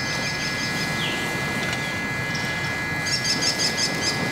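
A person blowing steadily into a small wood fire in a Firebox Nano stove, coaxing it into flame. Birds chirp a few times about three seconds in.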